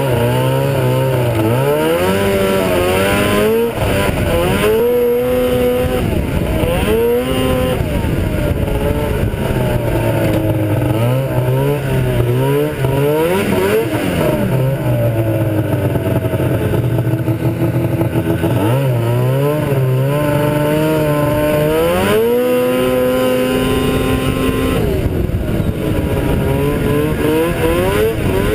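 Ski-Doo Blizzard 7500 snowmobile's two-stroke engine on a test run after its drive clutches were rebuilt. The engine speed keeps rising and falling, with stretches held at a steady speed.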